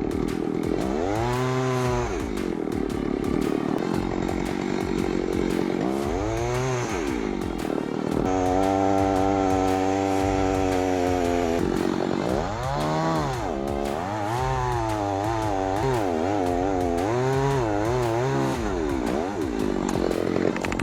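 Two-stroke chainsaw engine revved up and down again and again, held at a steady high speed for about three seconds in the middle.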